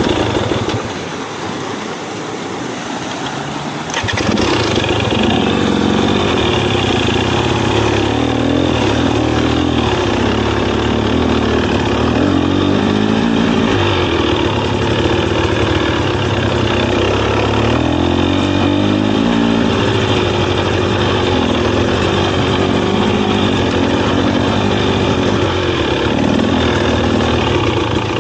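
Dirt bike engine running hard under a rider, its pitch rising and falling as the throttle is worked. It is quieter for the first few seconds and gets much louder about four seconds in.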